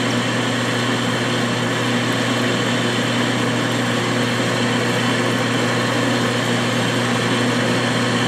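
Metal lathe running at about 300 RPM while a high-speed-steel bit in a Wimberley tool holder takes a dry roughing cut, 30 thousandths deep, in mild steel, cutting easily. A steady hum with a strong low tone.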